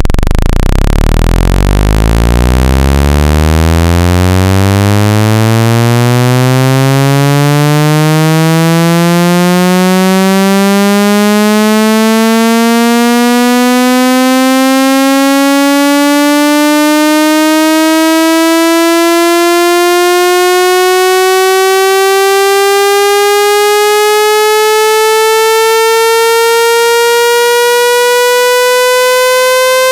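A synthesized tone with strong overtones, gliding steadily upward in pitch from a very deep hum to a mid-range tone: a generated speaker-cleaning sweep meant to vibrate water out of a phone speaker.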